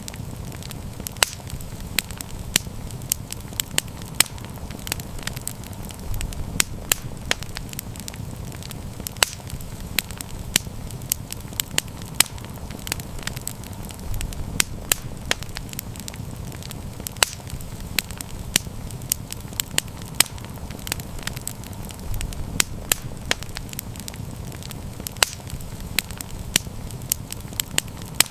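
Wood campfire burning steadily, with frequent sharp crackles and pops over a low, even rumble of the flames.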